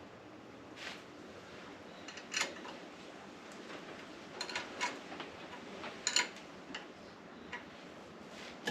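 Light, irregular clicks and taps of metal parts being handled and fitted while a Wood-Mizer BMS250 blade sharpener is reassembled and adjusted; the grinding wheel is not running.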